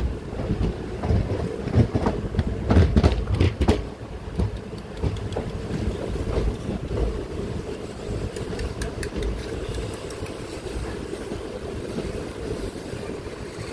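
Moving passenger train heard from an open coach window: a run of loud wheel clanks on the track in the first four seconds, then a steady running noise of wheels on rails.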